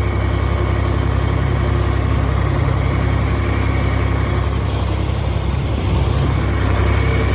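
Farm tractor engine running steadily at constant speed, a low even drone.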